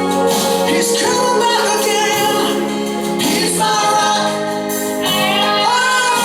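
A Christian song in a gospel style: voices singing long held notes over instrumental backing.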